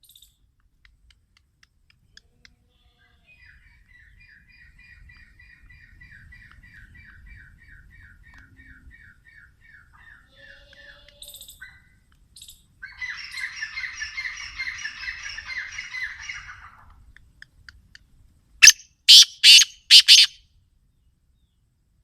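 Black francolin calling: a burst of four or five loud, harsh grating notes near the end. Before it, other bird calls: a faint run of short falling notes, then a dense harsh chatter.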